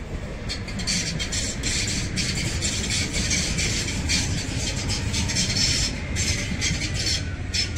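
Electric multiple-unit commuter train passing on the track: a steady low rumble with a rapid, uneven run of wheel clicks, easing off near the end as the last cars go by.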